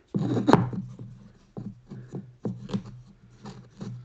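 Hand saw cutting wood in short, uneven strokes, about two a second, the saw riding on a magnetic angle guide to start a dovetail cut.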